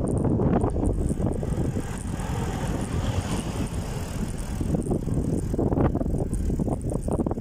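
A bicycle being ridden, picked up by a camera mounted on the bike: a continuous low rumble of the tyres on the road, with many small rattling knocks as the bike goes over bumps.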